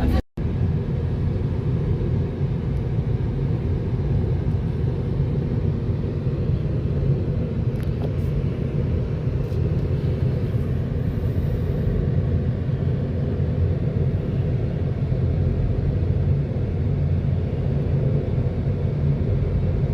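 Steady low road rumble of a car in motion, heard from inside.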